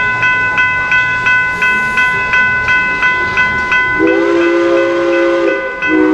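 Railroad crossing bell ringing steadily at about three strikes a second. About four seconds in, a locomotive's three-note chime air horn sounds one long blast, then a short one near the end.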